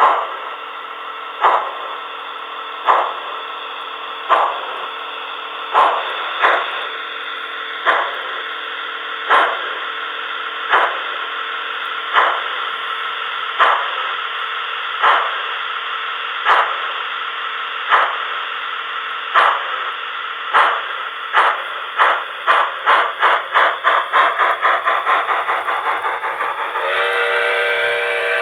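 Steam locomotive sound from an HO-scale C11 model: chuffs over a steady steam hiss, about one every second and a half, quickening toward the end as the engine speeds up, then a chord-like steam whistle blast near the end.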